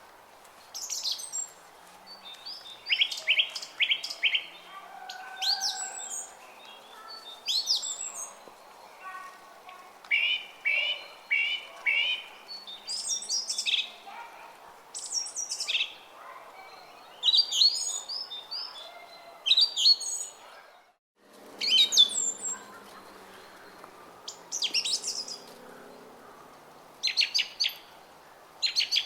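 Small songbirds chirping and singing in short, quick phrases, some notes repeated three or four times, one phrase after another every second or two. A faint steady murmur of a flowing brook runs underneath.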